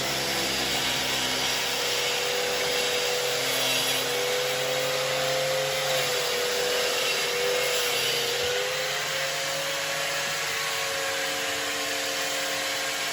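Zubr electric wall chaser running continuously as it cuts a groove in a wall, its motor pitch wavering slightly under load over a steady grinding hiss.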